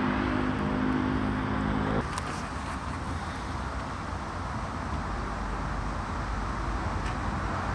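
Steady hum of several held tones that stops abruptly about two seconds in. Then a steady background rumble of road traffic and a distant approaching train, the low rumble growing near the end.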